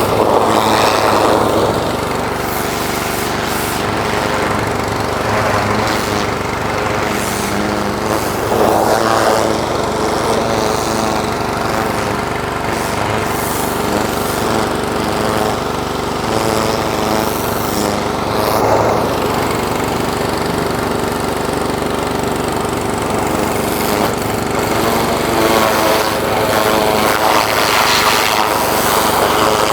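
Pressure washer's small engine running steadily under load. A rushing hiss of spray swells briefly several times.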